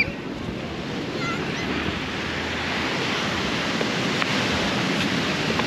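Ocean surf washing onto the shore, a steady rushing that grows a little louder after the first second or two.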